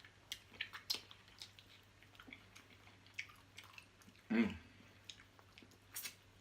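Close-miked chewing and wet eating mouth sounds: a string of small smacks and clicks, with one louder mouth sound about four seconds in.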